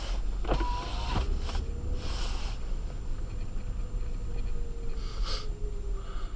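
Steady low rumble of an Acura MDX driving on a snowy road, with a few short swishes about two to three seconds apart and a couple of faint clicks.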